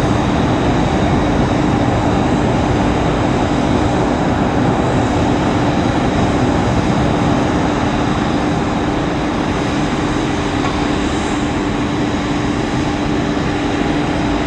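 Airbus A330-300 twin-jet engines at takeoff thrust as the airliner climbs away: a steady rumble with a low drone, slowly fading.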